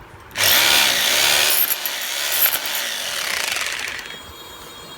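Crown CT18211 800-watt rotary hammer drill switched to hammer mode and triggered: the motor starts abruptly about half a second in, runs for a few seconds, then winds down with falling pitch near the end.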